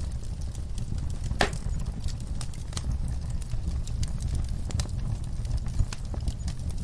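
Wood fire crackling in a fireplace: irregular sharp pops and snaps over a steady low rumble of the flames, with one louder pop about a second and a half in.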